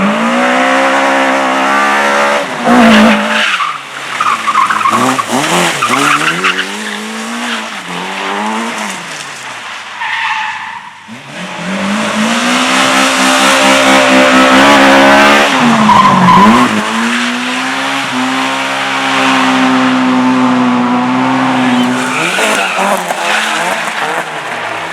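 A race car's engine is revved hard, its pitch climbing and dropping again and again, while the tyres skid and squeal as the car slides. About halfway through it drops away briefly, then holds high revs for several seconds.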